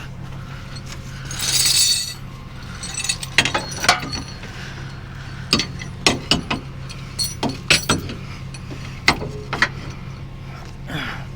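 Tow chain and metal hooks clinking and rattling in a string of sharp clinks as they are hooked onto a car's lower control arms, after a brief rushing scrape near the start, over a steady low hum.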